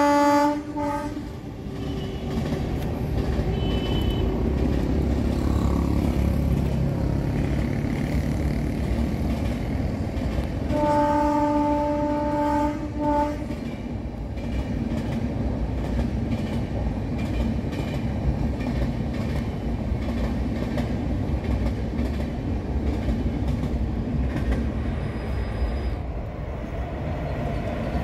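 Indian Railways electric-locomotive-hauled passenger train passing close by, with a steady rumble and clickety-clack of wheels on rail. A train horn ends a blast at the start with a short toot, then sounds again about eleven seconds in: a two-second blast followed by a short toot.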